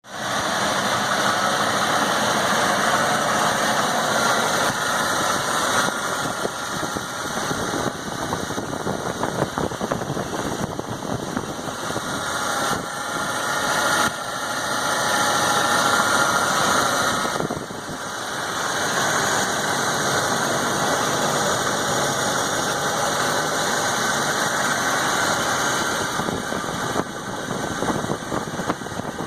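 Gasoline engine of a 1991 Ford dump truck running, mostly at a steady idle. Its level and pitch shift a few times, with a sudden drop about two-thirds of the way through.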